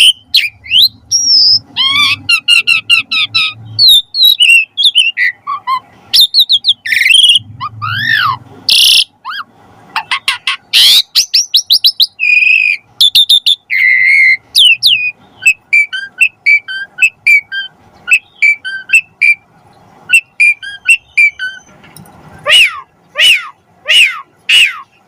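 Asian pied starling (jalak suren) singing a long, varied song of rapid chattering rattles, squeaky whistles and gliding notes. Near the end it breaks into a run of loud, repeated down-slurred whistles.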